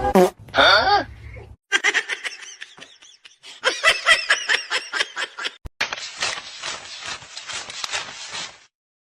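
People laughing hard in rapid bursts from about two seconds in, stopping shortly before the end, after a brief gliding vocal sound at the start.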